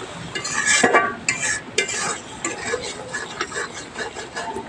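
A spatula stirring and scraping spice paste around a pan in a series of irregular strokes, with light clinks against the metal. The masala has been fried down until the oil separates.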